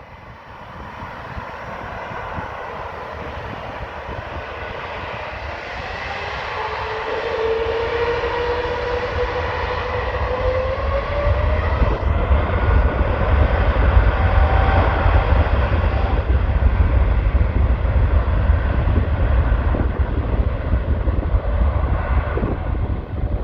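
Boeing 777 twin-engine jet taking off at full thrust, its roar growing steadily louder, with a whine rising in pitch partway through and a deep rumble that builds in the second half.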